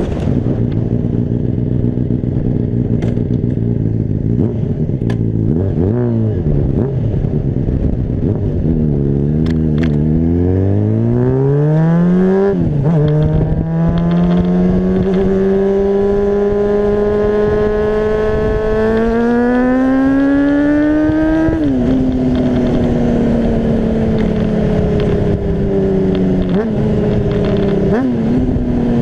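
Honda CBR600RR inline-four engine running low and steady, then revving up from about nine seconds in. The pitch drops sharply at an upshift near twelve seconds, climbs slowly through the next gear to a second shift near twenty-one seconds, then eases off. Heavy wind noise on the microphone runs underneath.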